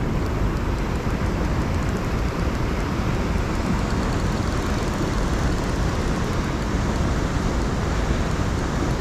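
Steady low rumbling rush of wind buffeting the microphone outdoors, unbroken by any distinct sounds.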